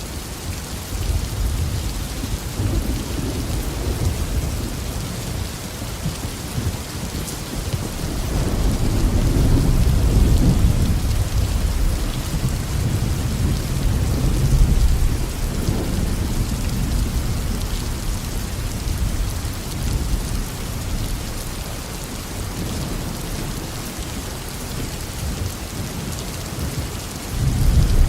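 Steady heavy tropical rain with deep rolling thunder. The rumble swells about a second in, is loudest around the middle and slowly fades, then a new roll starts near the end.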